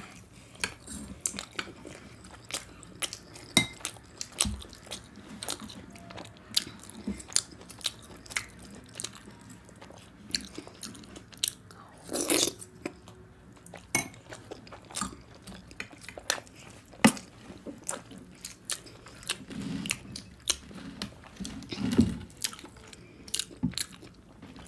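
Close-miked chewing and biting of food, with irregular short wet clicks and smacks of the mouth, and a louder burst about twelve seconds in.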